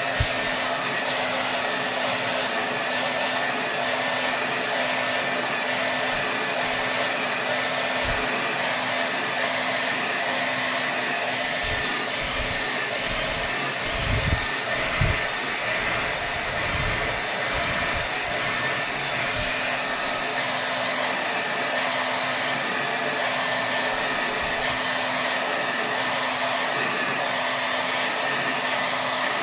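Hair dryer running steadily on its highest setting: an even rush of air over a low motor hum, with a few brief low thumps about halfway through.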